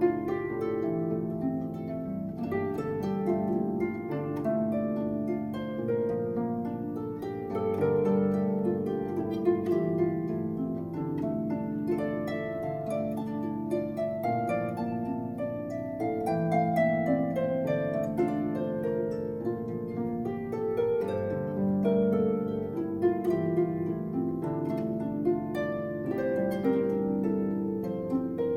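Solo harp playing continuously: a melody of plucked notes over lower ringing, overlapping notes.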